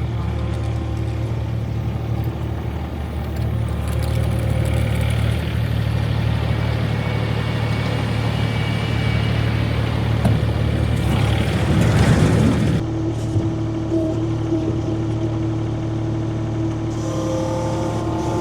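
Vehicle engine running steadily, with a brief louder rush of noise about twelve seconds in.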